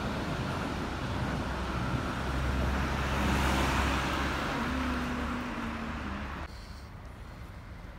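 Red electric regional train running past on an elevated track, then a car driving past close by, the noise swelling about three to four seconds in. The sound cuts off abruptly about six and a half seconds in, leaving quieter street noise.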